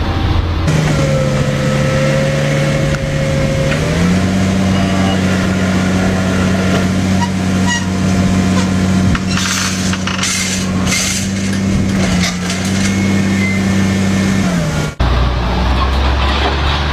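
Field Boss WFE 4-270 tractor engine running steadily. Its pitch rises about four seconds in, holds, and drops again near the end before the sound cuts abruptly to a lower, deeper drone.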